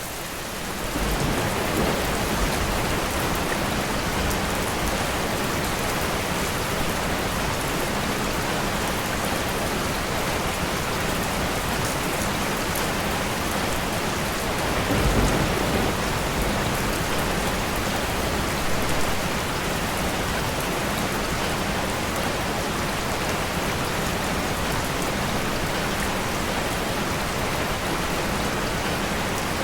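Steady rain falling and pattering on surfaces, an even hiss throughout. Brief low rumbles swell up about a second in and around the middle.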